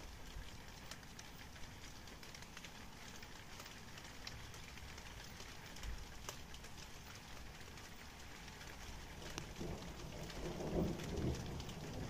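Steady rain falling, with drops ticking close by. A low rumble of thunder swells up about three-quarters of the way through and grows louder toward the end.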